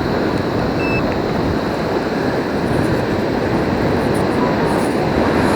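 Steady rushing of surf and wind on the microphone.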